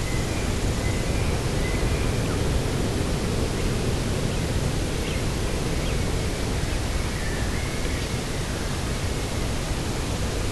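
Steady coastal wind with a low rumble and a constant rushing hiss, without gusts or pauses. Faint short bird chirps come through now and then.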